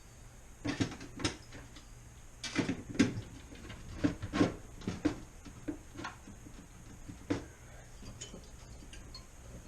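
Putty knife prying and knocking at a refrigerator's drain pan: irregular clicks and clattering knocks in small clusters, thinning out to faint ticks after about seven seconds.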